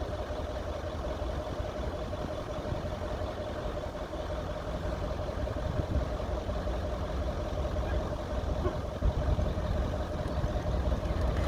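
Off-road SUV engine running steadily at low revs, a low rumble with a steady whine over it.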